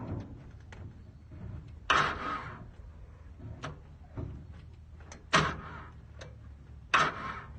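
Starter of a Kubota L2600 diesel tractor cranking in three short bursts, the engine failing to catch.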